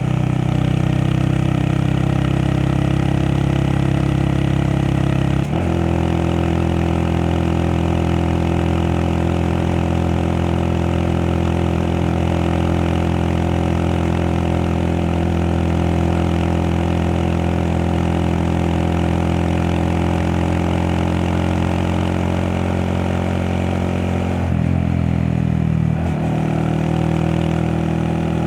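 Honda Monkey 125's single-cylinder four-stroke engine running steadily while riding, with road and wind noise. The engine note changes abruptly about five seconds in, and again near the end.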